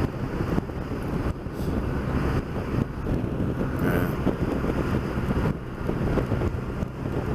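Motorcycle riding along in traffic: the engine runs steadily under wind noise on the microphone.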